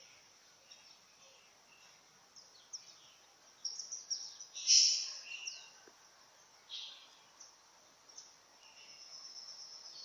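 Wild birds calling: scattered short, high chirps and down-slurred notes, the loudest call about halfway through, with a faint high trill near the end.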